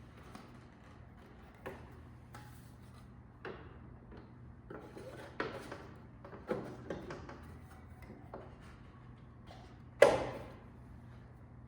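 A series of short knocks and clicks of things being handled, with one sharp bang just after ten seconds in that rings briefly, over a faint steady low hum.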